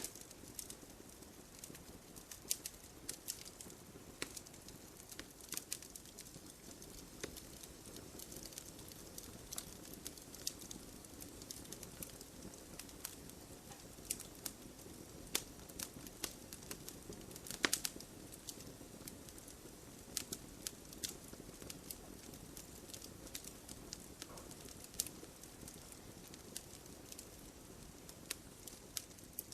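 Wood fire in a fireplace burning steadily: a soft low rush of flame with irregular crackles and sharp pops from the burning logs, a few of them louder, the loudest about two-thirds of the way in.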